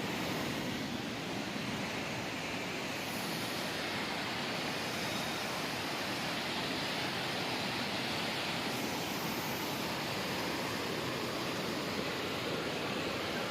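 Steady rushing of water, an even unbroken roar with no let-up.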